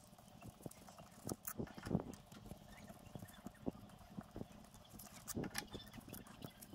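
Irregular light clicks and knocks of metal hand tools and engine parts being handled during the strip-down of a motorcycle engine, the loudest about two seconds in.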